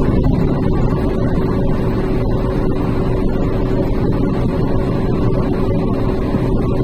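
Truck engine running steadily while driving, heard from inside the cab: a continuous low rumble with a steady hum.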